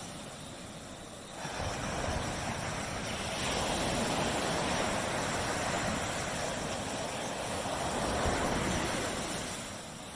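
Waves breaking on a beach: a wave comes in about a second and a half in, and its hissing wash holds, then eases off near the end.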